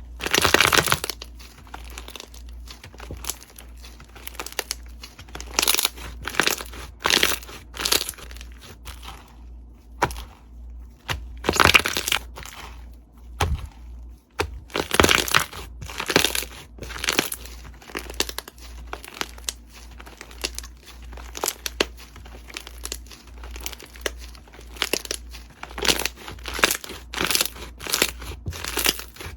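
Slime being squeezed, pressed and pulled by hand, giving irregular crackling, crunching and popping sounds, with louder bursts about a second in and again around the middle.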